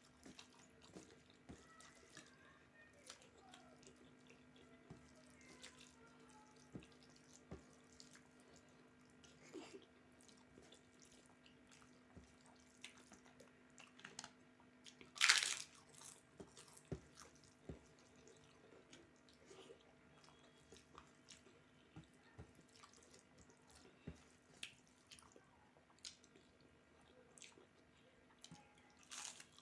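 Quiet close-up eating sounds: soft wet clicks and smacks of chewing and of rice and dal being mixed by hand, with one louder crunch about halfway through.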